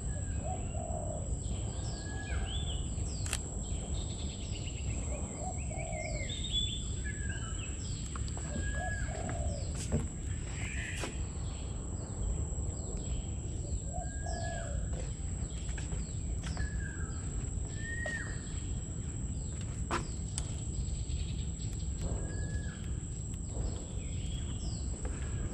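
Wild birds calling: many short chirps and hooked whistled calls repeating every few seconds, over a steady high thin whine and a constant low rumble, with a few sharp clicks.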